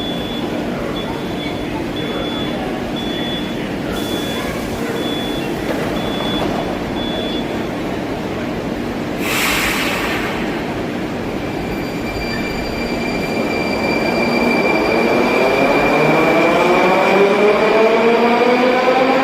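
Moscow Metro electric train pulling out of the station. Repeated short high beeps give way to a sharp hiss of air about halfway through, then the traction motors start a whine that rises steadily in pitch and grows louder as the train accelerates.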